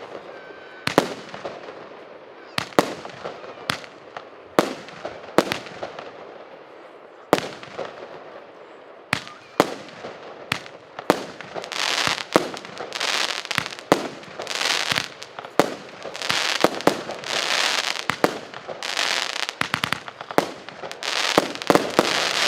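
A 19-shot consumer firework cake firing in sequence: sharp bangs about once a second, each trailing off in a fading hiss. About halfway through, the shots come faster and the bursts grow longer and overlap.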